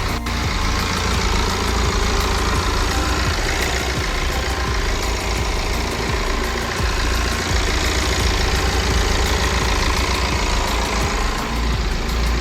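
BMW 120d's four-cylinder diesel engine running steadily at idle, with no revving.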